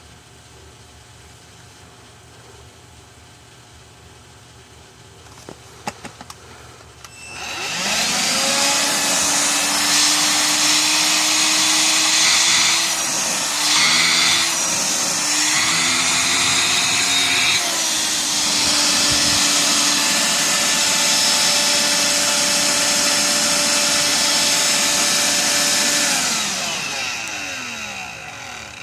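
Electrolux ZB3011 18V cordless stick vacuum switched on after a few clicks. Its motor spins up to a steady high whine, wavers in pitch a few times in the middle, then winds down near the end with a falling tone, running on its newly replaced lithium battery pack.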